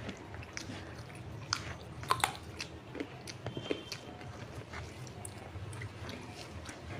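Close-miked eating by hand: chewing and mouth sounds with scattered soft clicks and smacks as rice and curry are mixed with the fingers and eaten.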